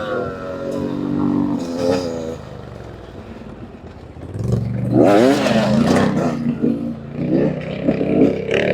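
Two-stroke dirt bike engine easing off, its pitch falling, settling quieter for a couple of seconds, then revving up again about halfway through with repeated rising and falling throttle blips.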